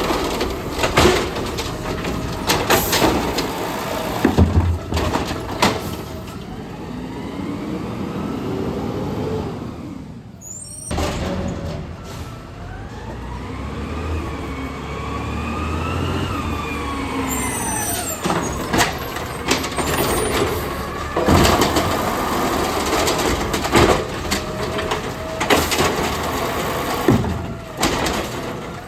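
Garbage truck at work: its engine revs up and then falls back, with repeated clanks and knocks throughout.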